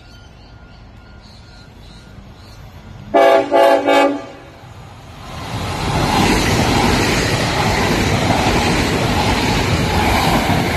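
Electric tilt train sounds its horn in three short blasts about three seconds in. From about two seconds later it passes close by at speed, and the rush of its wheels and air gives a loud, steady noise to the end.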